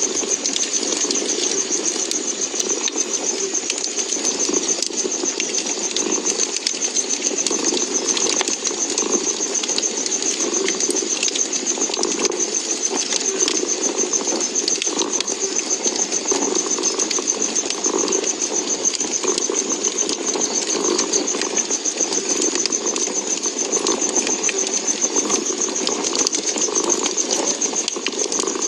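Domestic cat purring steadily, the purr swelling and easing with each breath, over a wood fire crackling with scattered small pops.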